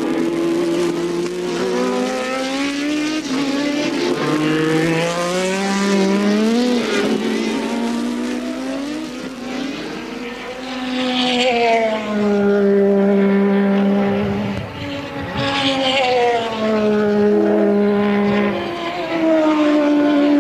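Several 1983 Formula One race cars' engines at high revs, overlapping, their pitch rising and falling through gear changes. Loud passes come about eleven and fifteen seconds in.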